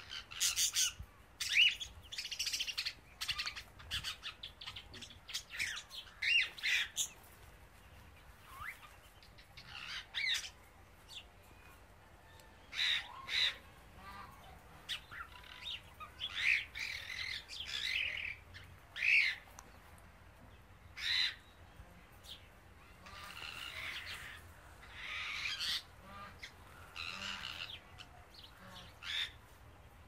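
Birds calling on and off: short chirps and harsh squawks, some with quick pitch bends.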